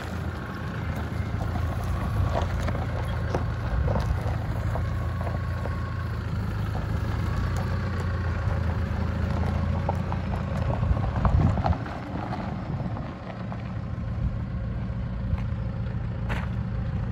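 Mahindra Thar's engine running at low revs as the jeep crawls slowly over rough, dry off-road ground, with a few short clicks. The engine swells briefly around the eleventh second, then drops back as the jeep pulls away.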